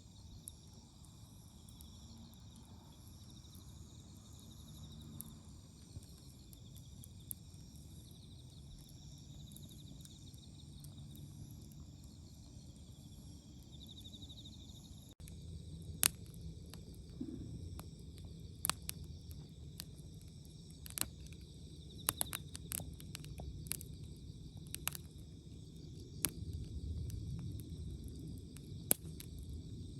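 Autumn crickets chirping steadily over a faint outdoor hush. About halfway through a cut brings in a wood campfire, crackling with irregular sharp pops over a low rumble while the insects carry on.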